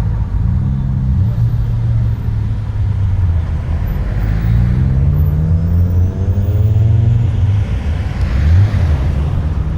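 Car engines running at low revs, their deep rumble rising and falling in pitch as they are revved or pull away.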